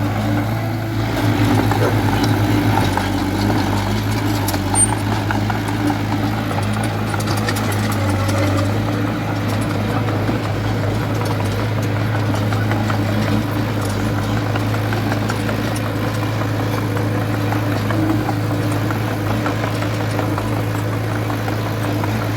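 Diesel engine of heavy earthmoving machinery running steadily at constant speed with a low, even drone.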